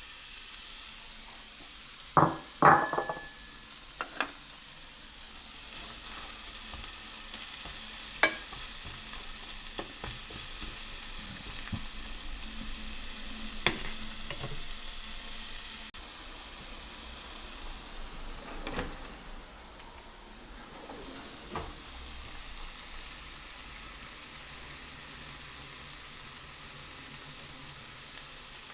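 Food sizzling steadily in a hot frying pan, with sharp clacks of a utensil against the pan every few seconds, the loudest pair about two to three seconds in.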